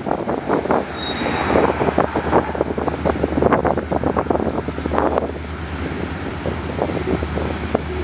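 Wind buffeting the microphone in irregular gusts, over a steady low engine hum that grows firmer in the second half.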